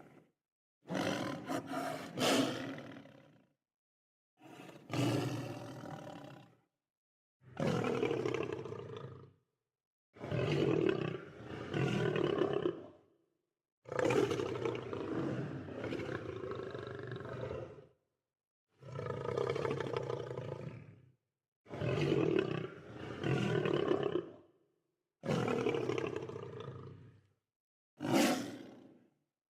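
Lions roaring: a string of about nine separate roars, each one to four seconds long, with dead silence between them.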